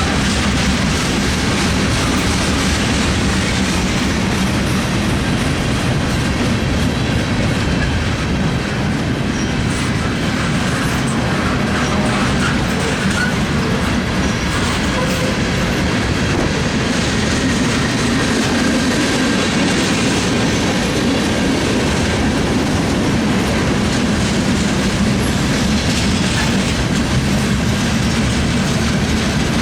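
Freight train rolling past: a steady rumble with the clickety-clack of wheels over the rails and some thin wheel squeal.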